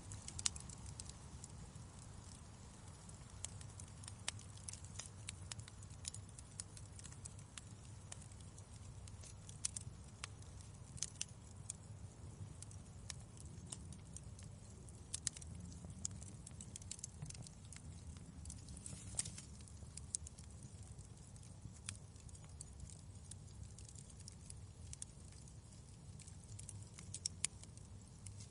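Fireplace crackling: irregular sharp pops and snaps over a steady low rumble of the burning fire.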